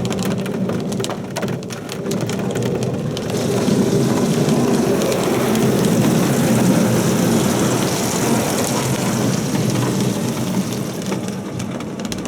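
An Oasis Typhoon in-bay automatic car wash spraying water onto a car, a steady rushing, drumming noise of water hitting the body and glass.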